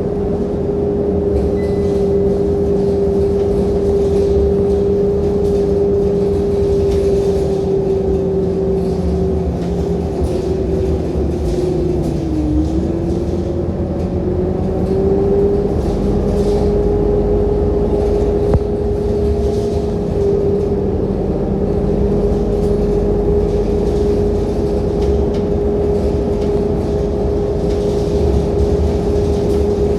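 Scania K230UB city bus heard from on board: the diesel drivetrain running with a steady whine over a low rumble. About twelve seconds in the whine dips briefly in pitch, then comes back up and holds steady.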